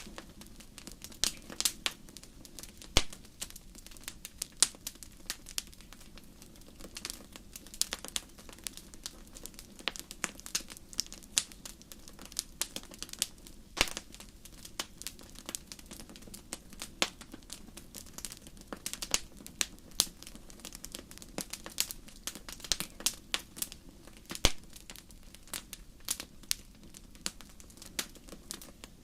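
Wood fire crackling in a fireplace: irregular sharp pops and snaps, a few louder ones scattered through, over a low steady rumble.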